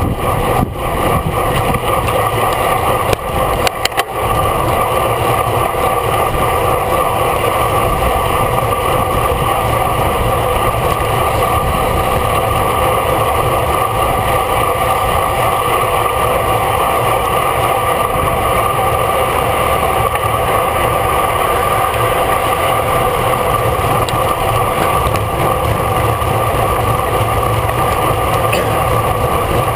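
Steady wind and road rush on a bicycle-mounted camera riding at race speed, with a few short knocks in the first few seconds.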